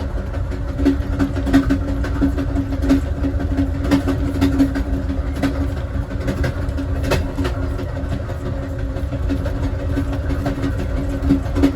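Amtrak Southwest Chief passenger car rolling along the track, heard from inside the last car: a steady low rumble with a constant hum and irregular sharp clicks from the wheels on the rails.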